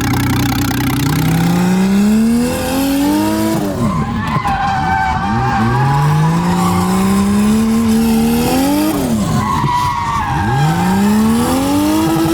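Nissan R32 Skyline's turbocharged RB20E straight-six revving up three times while drifting, its pitch climbing and then dropping away between pulls. Tyres squeal through the slides.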